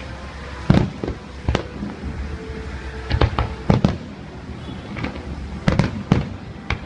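Fireworks display: aerial shells bursting in sharp bangs every second or so, some in quick pairs, over a steady rumble.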